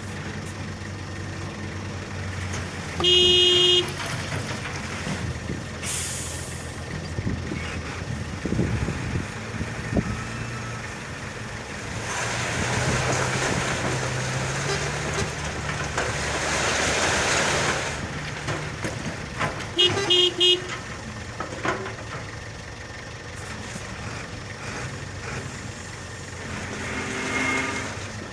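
Howo 6x4 dump truck running with a steady low engine note, growing louder and rougher for several seconds in the middle. A loud horn blast comes about three seconds in, and a few short horn toots come around twenty seconds in.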